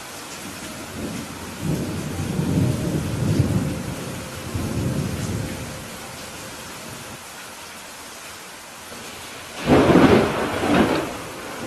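Steady rain with thunder: a low rolling rumble from about one to five seconds in, then a sudden, louder clap about ten seconds in that rumbles for about a second.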